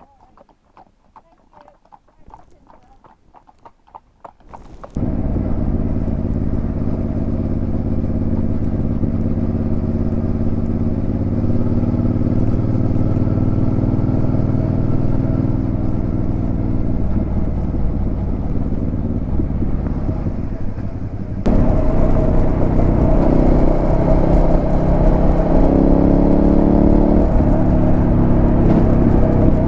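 Third-generation Suzuki SV650's 90-degree V-twin through a Delkevic aftermarket exhaust, the bike under way on the road. The engine comes in abruptly about five seconds in and runs steadily. After a sudden jump in level about three-quarters through, it rises in pitch as the bike accelerates.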